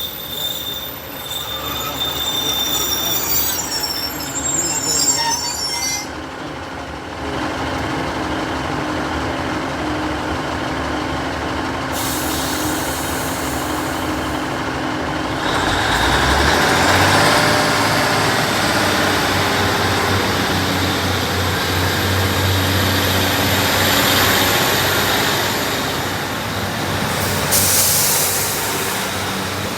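A train running through a station: rail noise and wheel squeal, with a steady diesel engine drone that swells up about halfway through and holds for some ten seconds.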